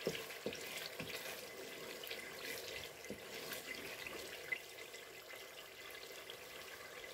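Blended onions and wet spice paste frying gently in oil in a pot, a soft steady sizzle. A few light knocks of a spoon stirring in the pot come in the first few seconds.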